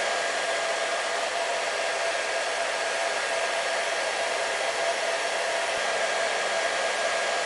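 Electric hair dryer running continuously: a steady rush of blown air with an even motor whine that holds one pitch and never changes.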